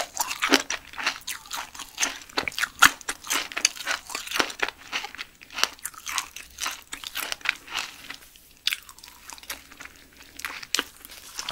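Close-miked chewing of giant silkworm pupae: rapid wet crunching and popping mouth sounds, dense at first and thinning out after about eight seconds.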